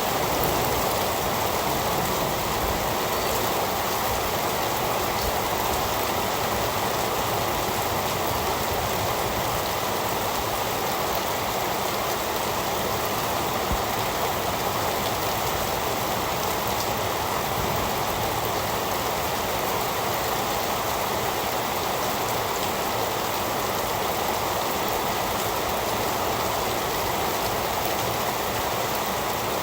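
Heavy rain falling in a steady, even hiss that never lets up or changes.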